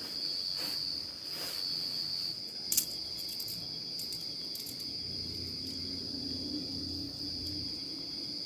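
Steady, high-pitched insect chorus in the forest, with a single sharp click a little under three seconds in.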